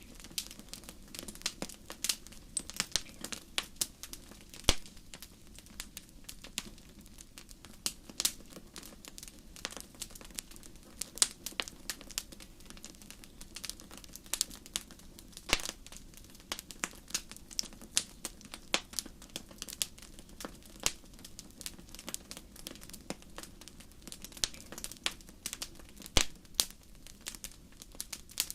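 Campfire crackling with a continuous, irregular scatter of sharp pops and snaps, a few much louder than the rest, over a low steady rumble.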